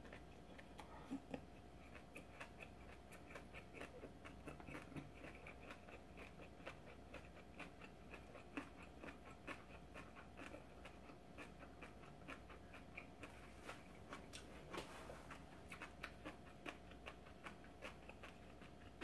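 Faint, close-miked chewing of a mouthful of kimbap: a steady run of small wet mouth clicks, a few each second.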